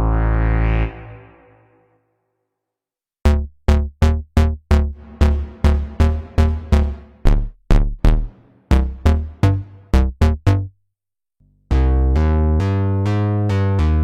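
Waldorf Pulse 2 monophonic analog synthesizer playing bass presets. A held note with a rising filter sweep dies away in the first second or two. After a short silence comes a run of short, plucky bass notes at changing pitches, and after another pause a new patch starts a smooth, continuous sequenced bass line about twelve seconds in.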